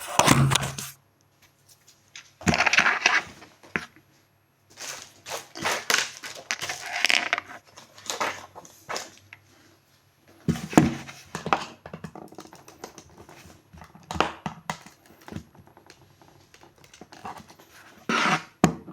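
Irregular bouts of rustling, scraping and sharp clicks from objects being handled close to the microphone, with short pauses between them.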